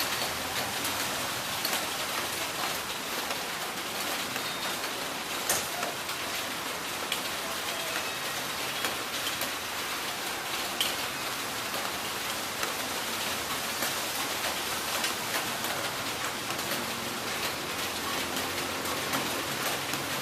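Heavy rain falling steadily, a dense hiss with individual drops ticking through it; one louder drop hit about five and a half seconds in.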